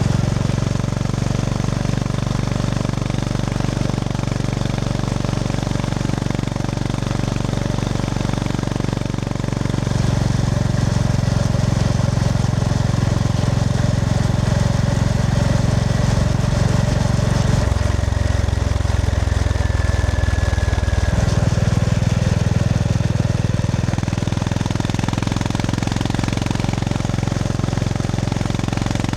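Honda GB350S air-cooled single-cylinder engine running under way, with a steady, thudding pulse. The engine note steps up about a third of the way in, then drops lower for a few seconds past the middle before picking back up.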